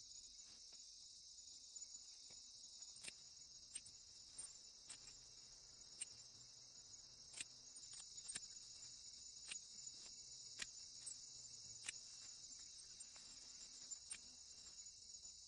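Faint steady insect chorus, typical of crickets, with irregular sharp clicks about once a second.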